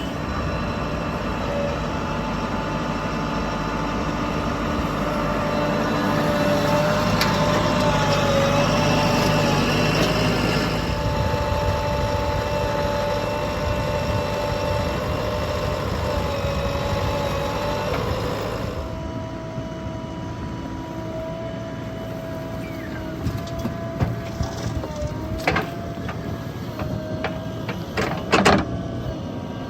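Diesel engines of heavy machinery running steadily, with a sudden change in the sound about two-thirds of the way through and a few sharp knocks near the end.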